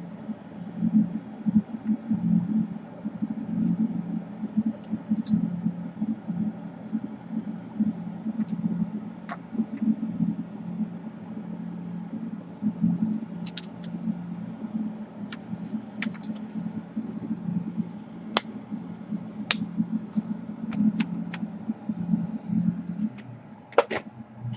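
Steady low fluttering hum of a small motor or blower, with scattered light clicks and taps of small tools; the hum stops about a second and a half before the end.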